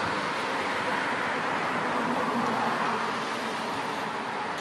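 Steady road traffic noise: an even rush of passing vehicles with no single distinct event.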